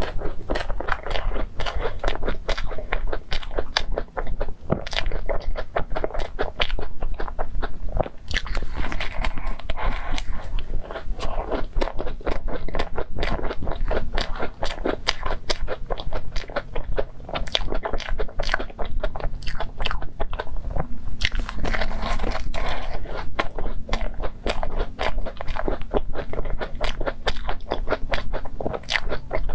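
Close-miked chewing of crumb-topped cream puffs: a continuous stream of small crunches and mouth clicks as the pastry is chewed.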